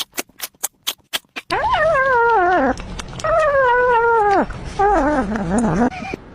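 Quick, even ticking, about six a second, stops about a second and a half in. Then a pet gives three long, wavering cries, each falling in pitch.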